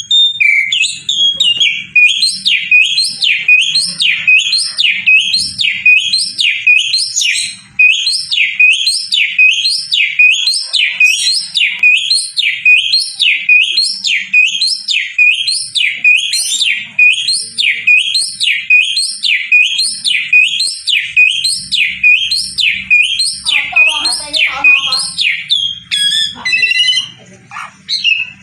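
Javan pied starling (jalak uren) singing a long run of the same swooping whistle over and over, about one and a half notes a second, breaking into a brief spell of varied chattering notes near the end.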